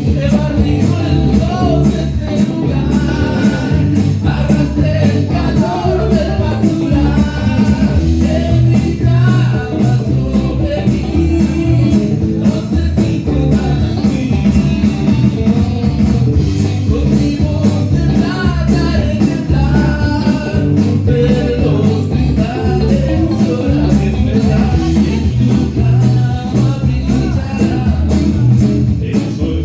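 A song played by a band with electric guitar and bass under a steady beat, and a voice singing over it.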